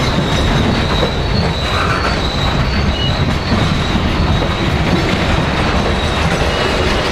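Train rolling past, its steel wheels rumbling on the rails with a thin, high-pitched wheel squeal that comes and goes.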